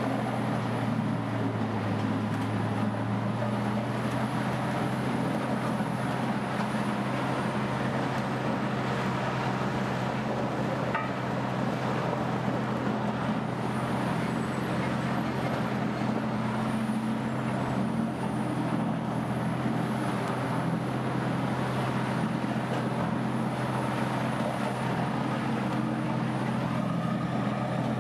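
Bandit Beast 2680 horizontal grinder running steadily: a constant low engine drone with a rough mechanical noise over it.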